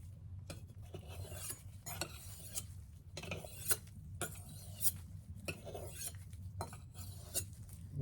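Chef's knife blade scraping across a sharpening stone in a series of short strokes, about one every half second to second.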